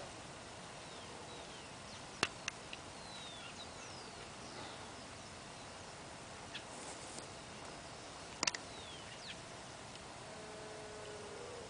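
Natural outdoor ambience: a steady hiss with scattered short, falling bird whistles. A few sharp clicks are the loudest sounds, one about two seconds in, one just after it, and a double click about eight and a half seconds in. A low, gliding double tone comes near the end.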